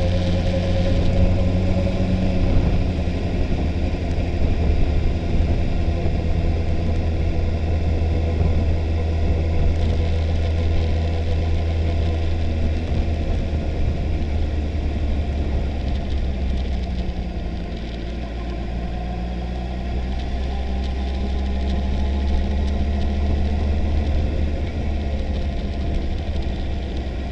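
Kawasaki ZX-14's inline-four engine running at low, fairly steady revs as the motorcycle cruises slowly, with wind and road noise. The engine note eases off about two thirds of the way through, then picks up again.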